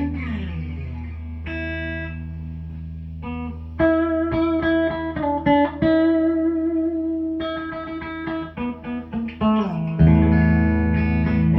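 Instrumental guitar music: plucked notes, some of them sliding in pitch, played over steady low sustained notes.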